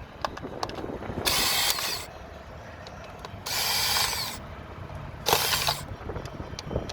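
A socket tool with an 8 mm socket turning bolts on a Ford Transit Connect's engine to get at the coil packs. It runs in three short whirring bursts, about a second apart, with light clicks between them.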